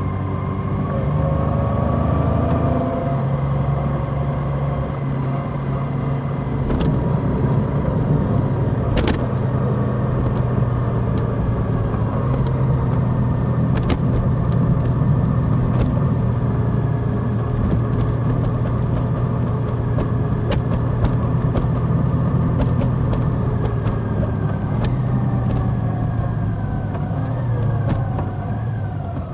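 Large motorcycle engine running steadily while riding, its pitch rising and falling gently as the revs change, with a few sharp clicks.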